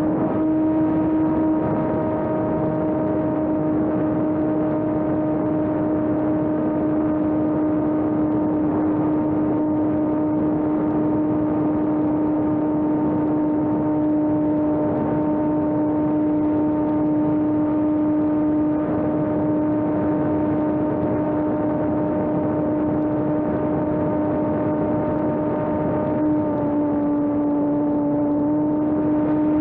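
Electric RC airplane's motor and propeller running at a steady whine, the pitch dipping slightly near the end as the throttle eases.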